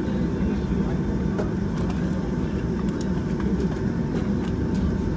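Steady low cabin rumble inside a Boeing 757-200 after landing, from its Pratt & Whitney PW2000 engines and cabin air, with a faint steady tone and a few faint clicks.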